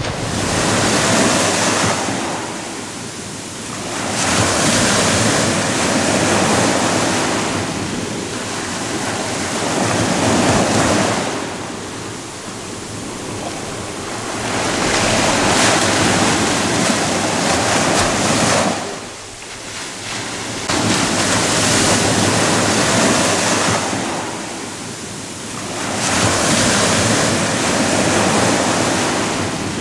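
Ocean waves breaking and washing on the shore, the surf swelling and fading again every five or six seconds.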